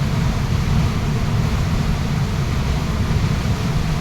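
Waterfall rushing: a steady, unbroken noise of falling water, heaviest at the low end.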